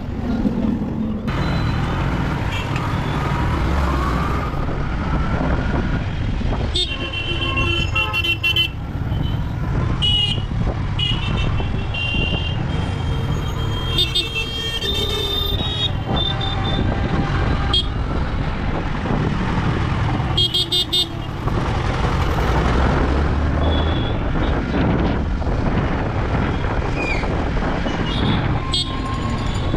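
Road traffic with steady engine and road noise, and vehicle horns honking in several bouts: around 7 to 9 seconds in, again from about 10 to 16 seconds, and briefly near 21 seconds.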